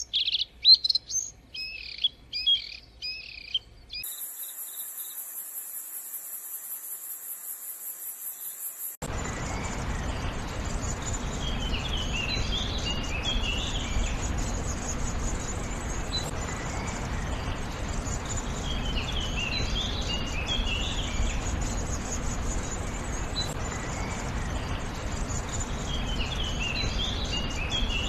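Birds calling in spliced clips. First a bird repeats short slurred whistles, then there are a few seconds of a high, even buzzing trill, then a bird sings a short phrase of notes about every seven seconds over a steady noisy background.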